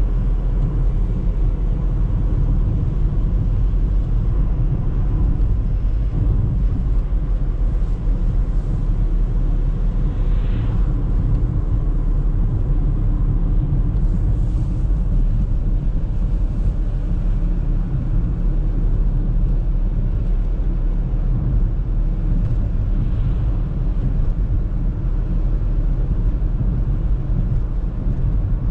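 Audi A3 driving, a steady low rumble of engine and road noise.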